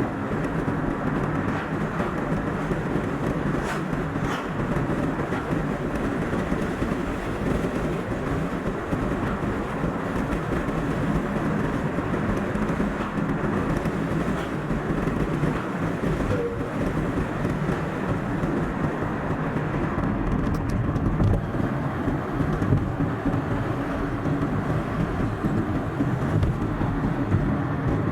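Steady car driving noise, road rumble and engine mixed, recorded from the moving car and played back at double speed.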